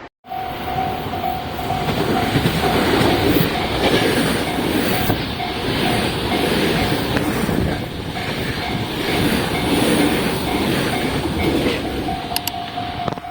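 Tobu Railway train running past a level crossing, the cars and wheels clattering loudly over the rails, while the crossing's warning bell rings in a steady, even repeated ding. Near the end the train noise drops and the bell is heard more clearly.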